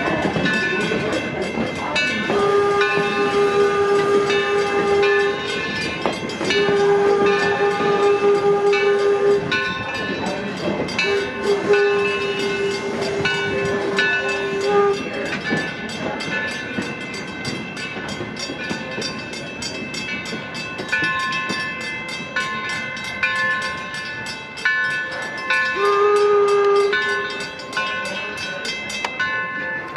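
Steam locomotive whistle on the 1873 Mason-built Torch Lake, sounding three long blasts in the first fifteen seconds and a short blast near the end, over the steady running noise of the train.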